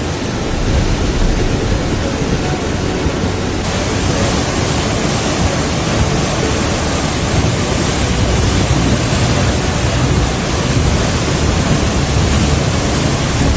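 Loud, steady rush of water, the continuous noise of floodwater or torrential rain, with no distinct strokes or pitch.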